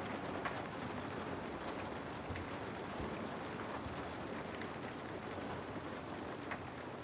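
Steady rain ambience: a constant hiss of rain with scattered faint drips and patters.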